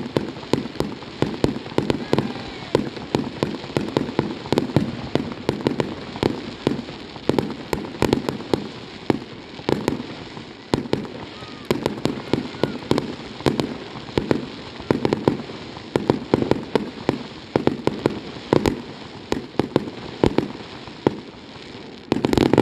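Fireworks display: a rapid, continuous string of bangs and crackling reports, several a second, with a heavier burst near the end.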